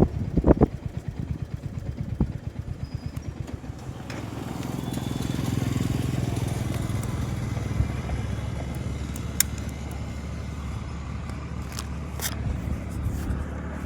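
Motorcycle engine idling after pulling up, at first with an uneven low pulsing, then settling into a steadier low hum, with a few sharp clicks.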